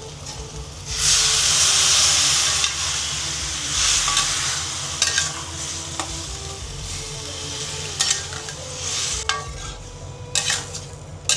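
Water added to a hot pan of fried, spiced mashed potatoes hisses in a loud sizzle for about two seconds, then the gravy sizzles more quietly while a spoon stirs it, knocking against the pan now and then.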